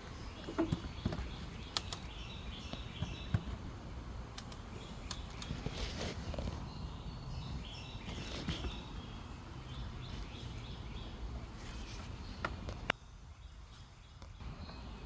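Outdoor ambience: birds chirping now and then over a low rumble, with a few sharp clicks and knocks. The background drops off abruptly near the end.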